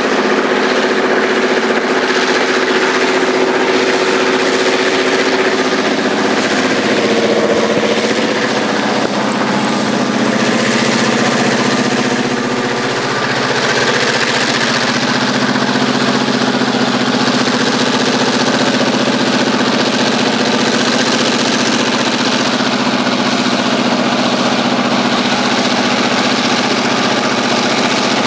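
Heavy diesel railway engines running close by: a loud steady drone with a low hum and a wash of noise over it, rising slightly in pitch around a quarter of the way in.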